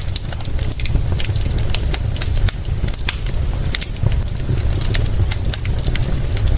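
Wood fire crackling with many small, irregular pops and snaps over a steady low rumble.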